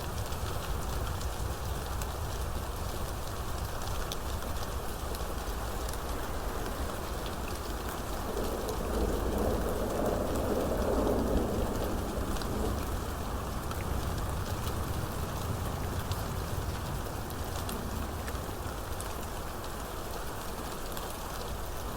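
Steady rainstorm: rain falling hard with fine drop patter. A louder swell of lower rushing sound builds about eight seconds in and fades by about thirteen seconds.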